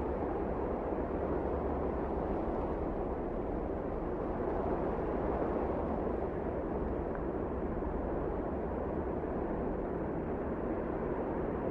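Wind blowing steadily, an even low rushing noise with no distinct gusts or other events.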